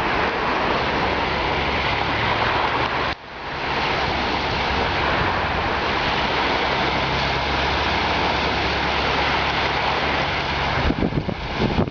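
Steady rush of floodwater, with a brief drop-out about three seconds in.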